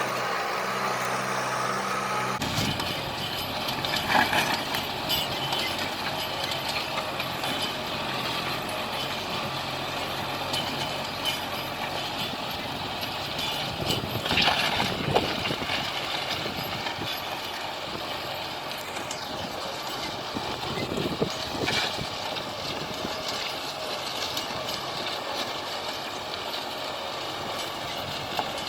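Kubota tractor engine running steadily. A couple of seconds in it turns rougher and noisier, with a few louder knocks about four and fifteen seconds in.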